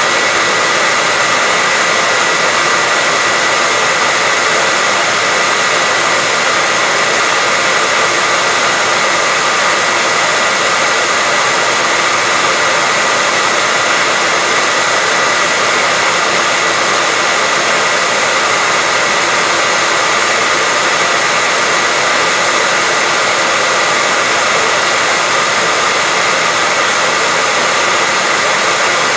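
Electric hair dryer running continuously: an even, unchanging rush of air with a steady high whine from its motor and fan, played as white noise to help a baby sleep.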